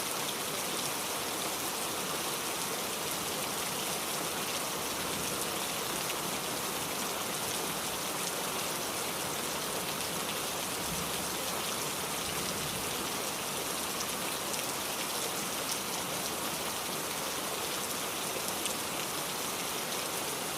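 Steady rain falling, an even hiss of many raindrops with faint fine patters, unchanging throughout.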